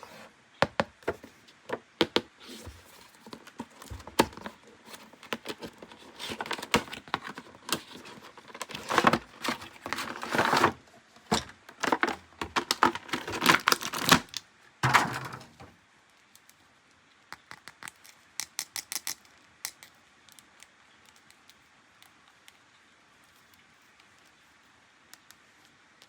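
Hard plastic toy parts and packaging being handled: crinkling and tearing of plastic wrap mixed with quick clicks and taps, busiest through the first fifteen seconds, then only a few light clicks.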